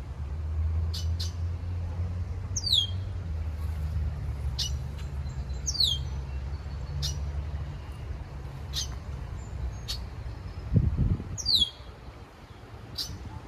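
Birds calling: short high chirps about once a second, and three times a quick run of notes falling in pitch. A low rumble sits underneath for the first two thirds, and there is a brief low thump near the end.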